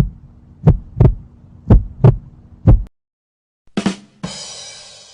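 Heartbeat sound effect: loud, low double thumps, lub-dub, about one pair a second, stopping about three seconds in. About a second later a different sound effect starts with a short hit and a bright, noisy ringing that fades away.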